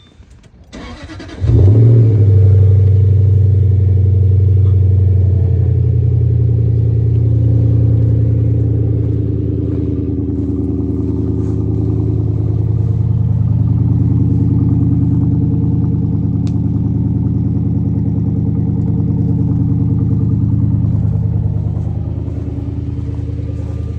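Jaguar S-Type R's supercharged V8 cranked on the starter and catching about a second and a half in with a flare of revs, then running at a steady fast idle that slowly eases down.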